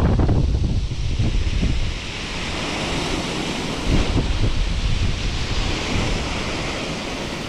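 Waterfall rushing steadily, with wind buffeting the microphone, heaviest in the first couple of seconds.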